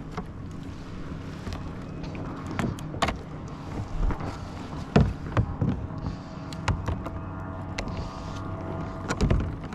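Irregular knocks and clunks from a kayak and the gear aboard it, a few of them sharp, the loudest about five seconds in, over a steady low hum.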